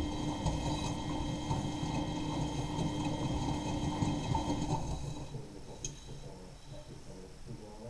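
Miele Novotronic W923 washing machine turning its drum during the wash, the motor running with a steady whine. The motor stops about five seconds in as the drum pauses between turns, leaving fainter, uneven sounds.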